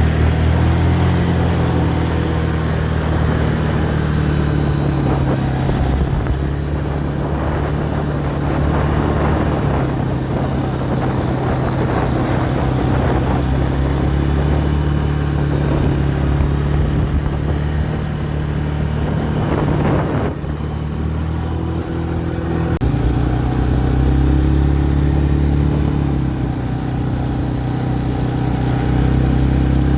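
A motor vehicle engine running steadily, its pitch and tone shifting about two-thirds of the way through.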